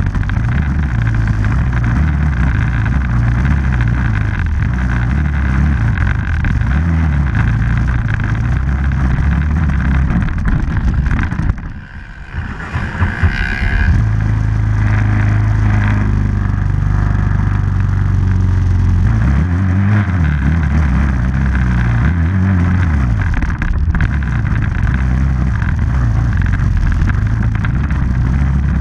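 Off-road vehicle engine running under way, its note stepping up and down with the throttle. About twelve seconds in the sound drops away briefly, then the engine picks up again.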